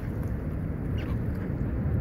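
Steady low rumble, with one faint short bird call about a second in.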